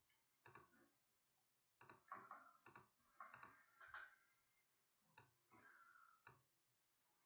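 Near silence with faint scattered clicks and short rustles, about a dozen in all, some in quick pairs.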